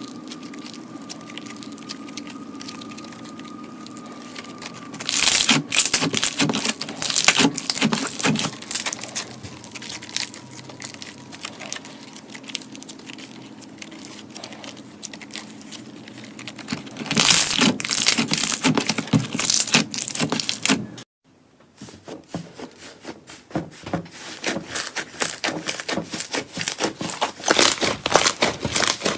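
Crisp crackling and crunching of something brittle being crushed or cut by hand, in dense bouts, with a faint steady hum before the first bout. It breaks off abruptly about two-thirds of the way through and then resumes.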